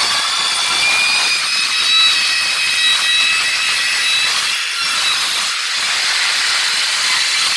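Power tool working the metal of a wood stove being built: a steady, harsh grinding noise with high whining tones, stopping just at the end.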